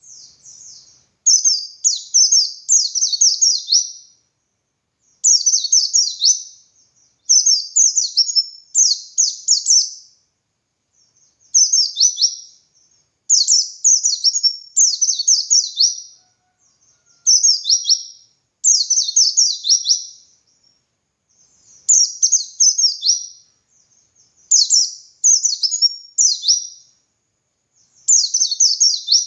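White-eye (pleci) singing: loud, high, rapid phrases of quick down-slurred notes, each burst lasting a second or two and repeated with short pauses throughout. This is the continuous 'ngalas' song used as training audio for other white-eyes.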